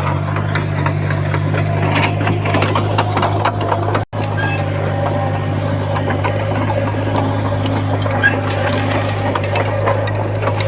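Heavy earthmoving machine's diesel engine running steadily, with a busy clatter of clicks and rattles over it. The sound cuts out for an instant about four seconds in.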